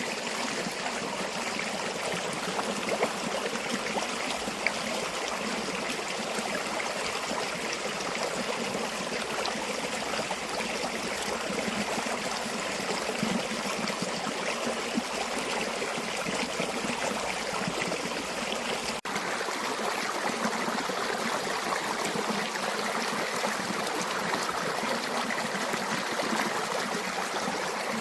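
River water flowing steadily, with one momentary break about nineteen seconds in.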